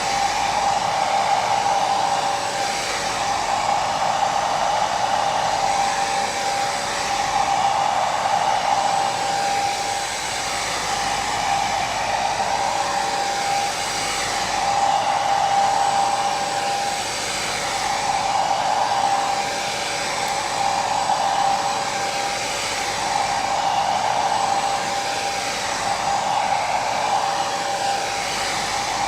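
Hair dryer running continuously: a steady rushing whoosh of air with a whine from the motor, swelling gently every few seconds.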